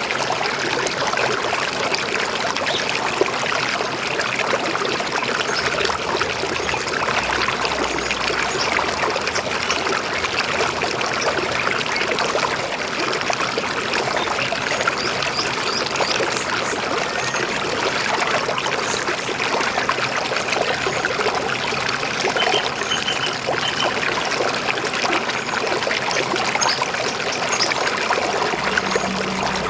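River water flowing steadily, with a few faint bird chirps over it.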